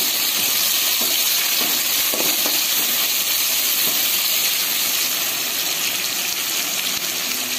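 Onion, tomato and green chillies sizzling in hot oil in a kadai, a steady hiss, while a spatula stirs them, with a few light scrapes against the pan in the first couple of seconds.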